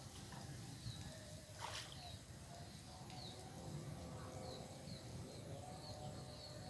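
A small bird chirping over and over, each call a short high falling note, coming about twice a second in the second half, over a faint low rumble. A single brief click about two seconds in.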